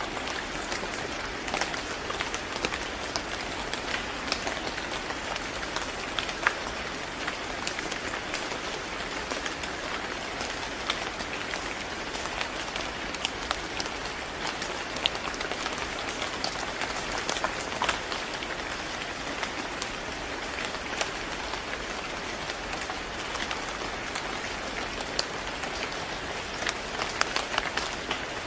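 Steady rain falling on a hard surface, a constant hiss with many scattered individual drop ticks.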